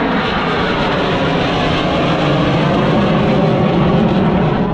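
F-22 Raptor fighter jet's twin turbofan engines making a loud, steady roar as it flies low overhead, growing a little louder toward the end.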